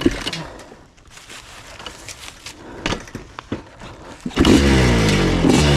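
A few scattered knocks and clanks, then about four seconds in a dirt bike engine suddenly starts up and runs loud, its pitch wavering up and down.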